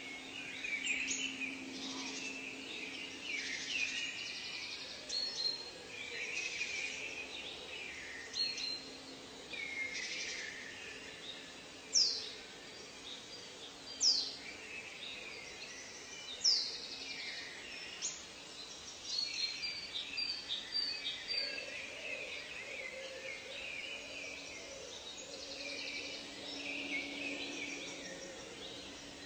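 A chorus of birds calling and singing, with many short overlapping chirps and trills, and three loud downward-sweeping whistles about two seconds apart midway through. A faint low hum comes and goes underneath.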